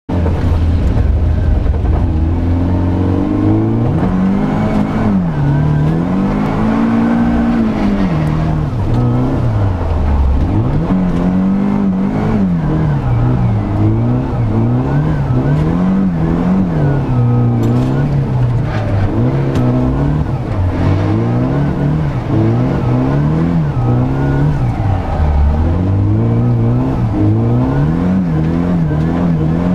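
Nissan SR20DET turbocharged four-cylinder heard from inside the cabin while drifting. It runs steadily for a few seconds, then revs up and falls back again and again, every second or two.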